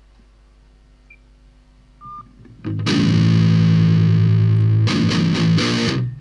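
Heavily distorted electric guitar: after a quiet start and a short beep about two seconds in, a loud chord rings out and holds, then breaks into choppy repeated chords near the end.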